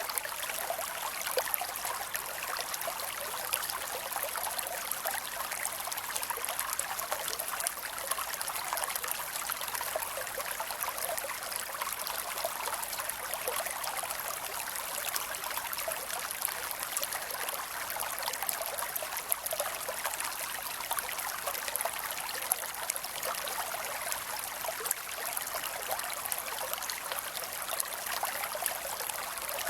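Creek water running and trickling over rocks, a steady flow.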